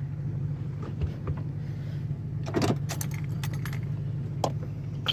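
A Ford F-150's V8 idles with a steady low hum, heard from inside the cab. A few light clicks and jingles come over it, a small cluster about halfway through.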